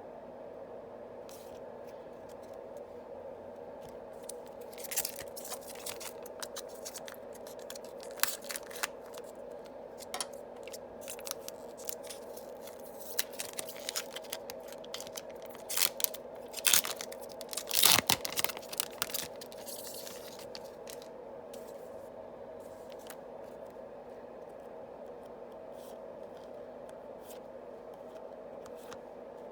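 Yu-Gi-Oh booster pack wrappers being opened and the cards handled: a run of crinkles, tears and sharp crackles that starts about five seconds in, grows loudest past the middle and stops about two-thirds of the way through. A steady low hum sits under it throughout.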